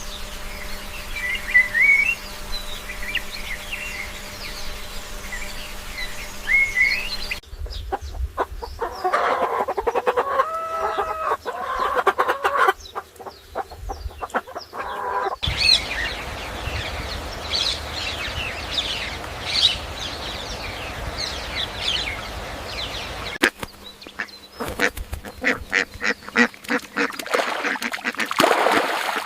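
Bird and poultry sounds in four short clips that cut abruptly into one another: high chirping calls, then a lower, repeated call with several pitch lines, then more high chirping, and near the end a run of rapid sharp clicks.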